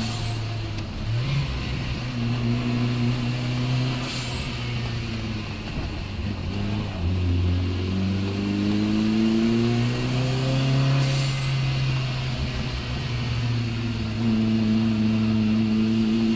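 Saab 9-3 race car engine pulling hard up a hill climb. Its note rises and then drops back several times through gear changes, with a short hiss at two of the shifts.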